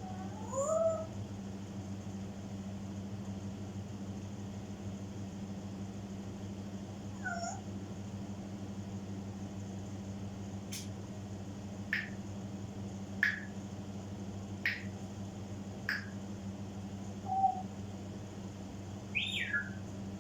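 African grey parrot calling at intervals: a rising call near the start, then a run of five short, sharp falling chirps about a second and a half apart, and a longer falling whistle near the end, over a steady low hum.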